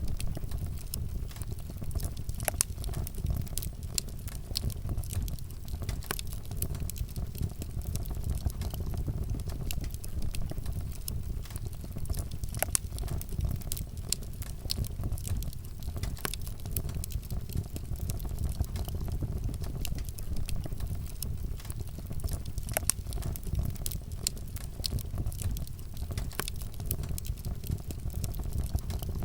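Wood fire burning, with a steady low rumble and frequent sharp crackles and pops scattered throughout.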